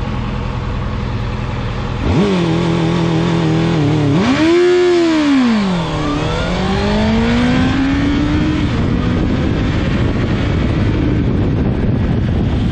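Honda CB650F's inline-four engine held at raised revs by a launch-control limiter, then the revs sweep up and back down as the bike launches and climb again through the gear, giving way to engine and wind rush.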